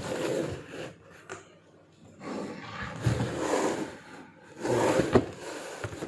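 Sandwich wrapper rustling and crinkling in irregular spells as a sandwich is wrapped by hand, with a sharp click about five seconds in.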